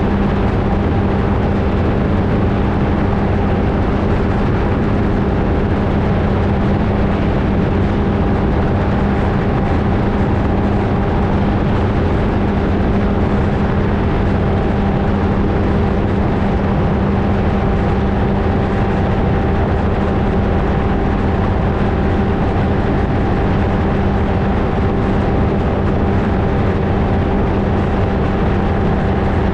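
Flightstar II ultralight's engine and propeller droning at a steady, unchanging power setting, with wind rushing over a camera mounted on the airframe.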